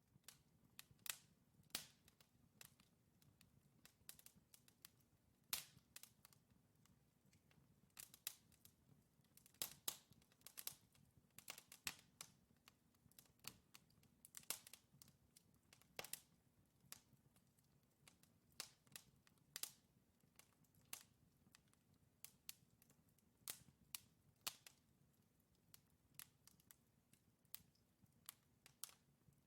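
Wood fire crackling in a fireplace: irregular sharp pops and snaps from burning logs, several a second at times, over a faint low hum.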